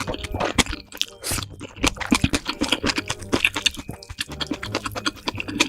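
Close-miked chewing of noodles: a rapid, irregular run of short wet clicks from the mouth, over faint background music.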